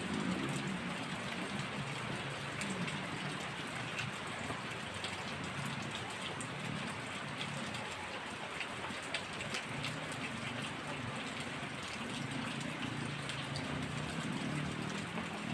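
Heavy rain falling steadily, many drops ticking sharply on a surface, with a low rumble underneath that swells and fades.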